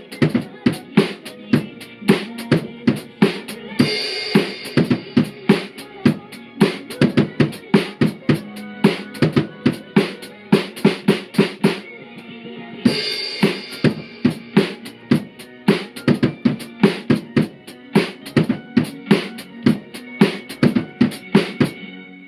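Acoustic drum kit played along to a pop song's backing track: a steady, busy beat of kick and snare with rimshots over the recorded music. Twice, a cymbal rings out over the beat, and the drumming stops at the very end.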